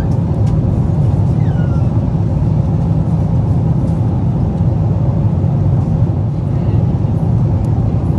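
Steady low drone of a Boeing 777-300ER's cabin in cruise: engine and airflow noise heard from an economy seat.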